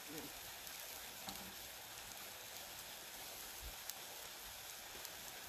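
Faint steady sizzling of onion and garlic frying in a pan, with a few scattered pops.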